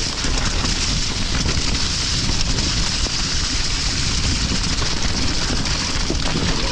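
Steady rushing noise of wind buffeting the microphone together with rain during a wet, stormy mountain bike ride.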